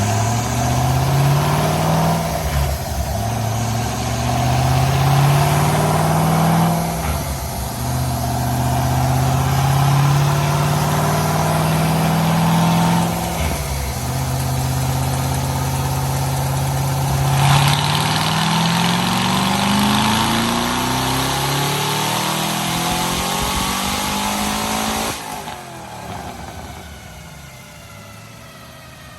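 Twin-turbo 6.0 L LS V8 (L76) accelerating hard through the gears: the engine note climbs and drops at each of three upshifts, pulls long in the last gear, then lifts off about 25 seconds in and winds down.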